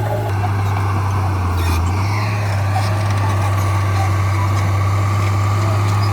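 Heavy diesel engine of a crawler bulldozer running steadily with a low drone; its pitch steps up slightly about two seconds in.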